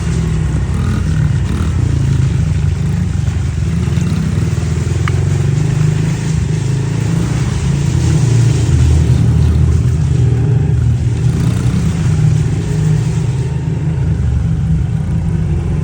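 Pit bike engine running hard as the bike is ridden, the revs rising and falling throughout.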